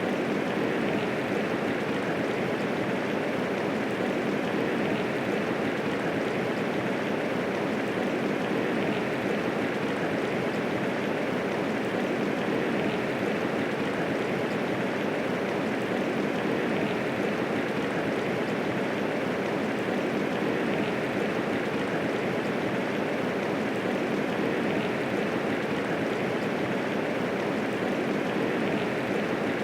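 Steady medium rainfall, an even hiss of rain with no thunder.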